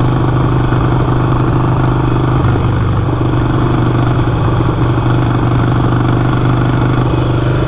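Harley-Davidson Iron 883's V-twin engine running at a steady pitch as the motorcycle cruises.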